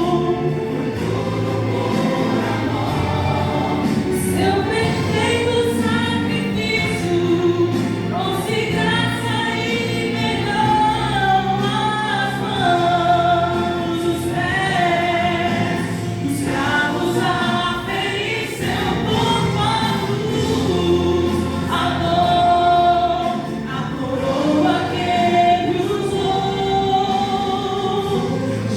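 Gospel song: voices singing in a choir-like blend over steady instrumental backing.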